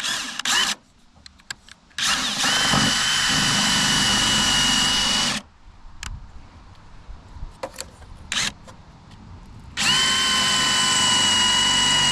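Cordless drill drilling out the rivets of a snowmobile's rear bumper, run in two long pulls, one from about two seconds in to past the middle and another starting near the end. Each pull spins up to a steady high whine. Between them come a few clicks and knocks as the bit is set on the next rivet.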